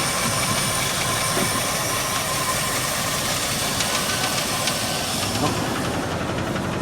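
Ford F-350 engine idling steadily with a light ticking, which the owner calls a little bit of a valve tap.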